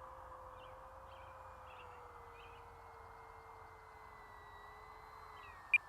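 Faint, distant whine of the FMS Cessna 182 Skylane RC plane's 4S brushless electric motor and propeller in flight, a steady tone slowly falling in pitch. A single sharp click comes near the end.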